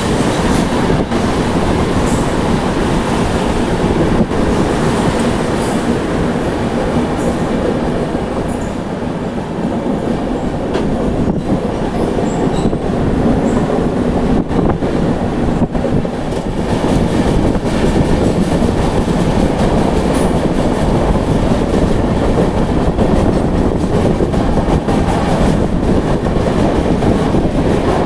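Duronto Express train running at speed: a steady rumble of wheels on rails with scattered clicks.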